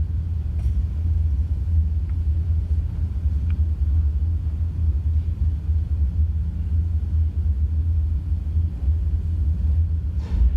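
A deep, steady low rumble with a few faint ticks, and a short hiss-like swell near the end.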